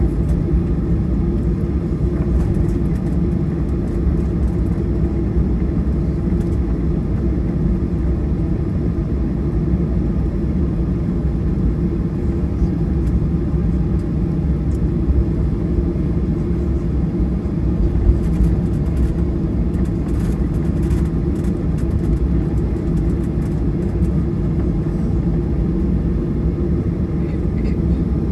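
Boeing 737-800's CFM56 turbofan engines running steadily, heard from inside the passenger cabin as a constant deep rumble.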